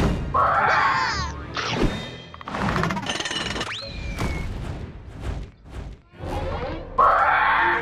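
Cartoon soundtrack: music under a quick string of slapstick sound effects, with thuds and crashes, a short yell near the start and another near the end, and a brief rising whistle about three and a half seconds in.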